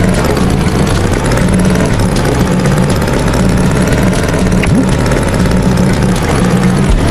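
Cartoon tractor engine sound effect running steadily with a low, pulsing chug.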